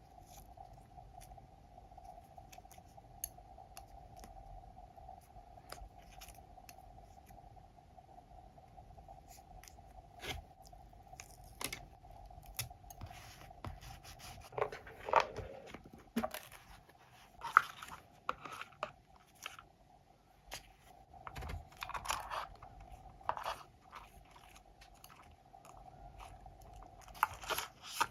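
Scrapbooking paper and stationery being handled: paper crinkling and rustling with scattered small clicks and taps, busiest in the second half and again near the end. A faint steady hum runs underneath.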